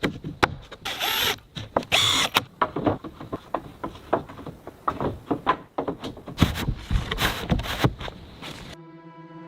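Hand-tool work on timber: a run of sharp wooden knocks and taps, as of hammering on boards, with two longer scraping sounds about one and two seconds in. Near the end it cuts to background music with held notes.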